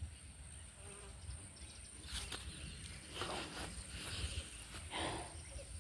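Quiet bush ambience: a steady high-pitched insect drone, with a few soft rustles of footsteps through the vegetation.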